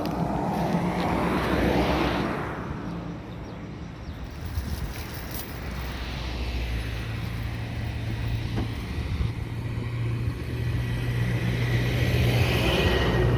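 Diesel engine of a D31E-20 crawler bulldozer running with a steady low hum that grows stronger about six seconds in. There are louder swells of noise near the start and near the end.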